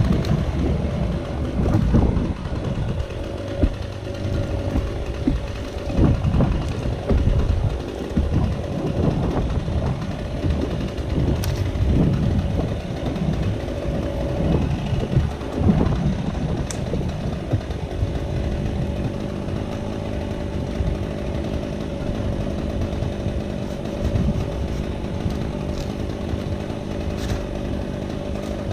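Gasoline chainsaw running at a steady pitch, with wind buffeting the microphone in uneven low gusts through the first half.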